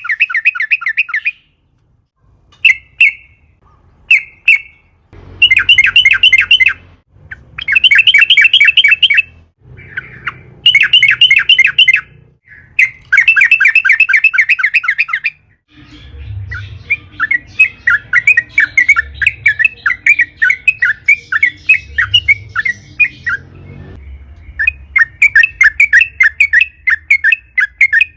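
Yellow-vented bulbul (trucukan) singing in long, rapid chattering trills. The song comes in bursts of one to two seconds with short gaps, with a longer, softer run of chatter past the middle.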